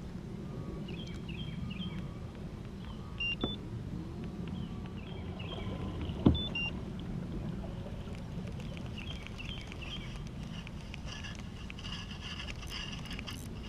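Steady low outdoor rumble from a fishing kayak, broken by two sharp knocks about three seconds apart, the second louder, with faint short chirps repeating throughout.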